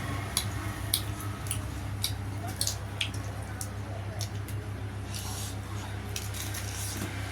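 Close-up eating sounds of dhido and chicken: wet chewing and smacking, with irregular small clicks, over a steady low hum.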